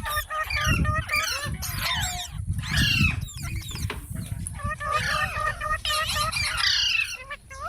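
Several parrots chattering and squawking at once: a dense run of short overlapping chirps and gliding calls, over a low rumble.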